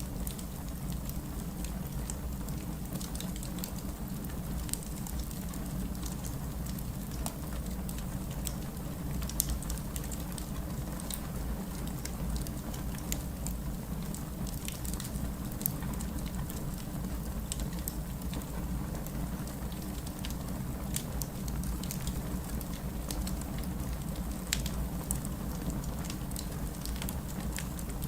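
Steady rain with a wood fire crackling over it in irregular sharp pops.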